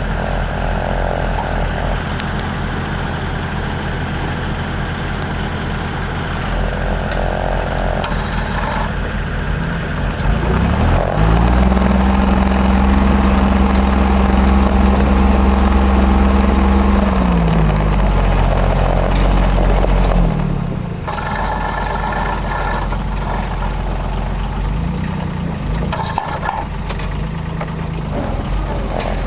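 Timberjack forwarder's diesel engine running under load, revving up about ten seconds in, holding high for several seconds, then dropping back to a lower steady speed around twenty seconds in.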